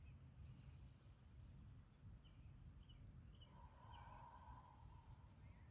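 Near silence outdoors: faint bird chirps over a low, steady background rumble, with a faint held tone a little past halfway.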